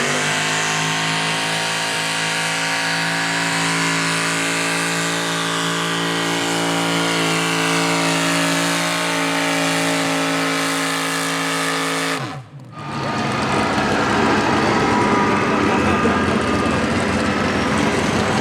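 Mini rod pulling tractor's engine held at high revs under load in a steady, loud note; about twelve seconds in the pitch falls sharply and the sound briefly drops out, as at the engine being shut down at the end of the pull. A rougher, noisier engine sound then takes over.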